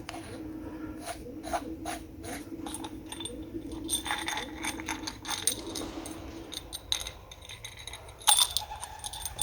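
Small metal parts of an airsoft suppressor, its washers and spring, clicking, clinking and rattling as it is taken apart. There is a run of quick clicks at first, a jangle in the middle, and one loud ringing clink near the end.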